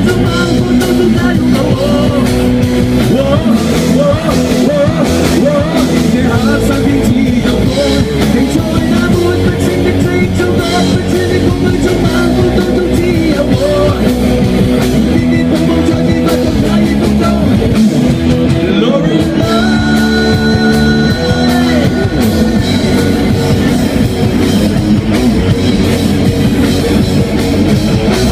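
Rock band playing live: drum kit, electric guitars and singing, loud and dense, with a high held note coming in about two-thirds of the way through.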